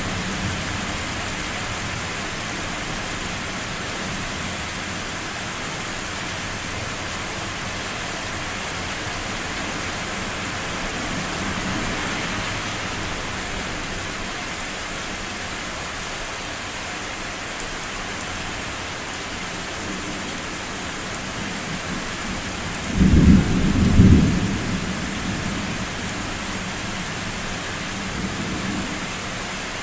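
Thunder rumbling over steady rain. One loud, deep rumble lasts about two seconds roughly three-quarters of the way through, and fainter low rolls come and go around it.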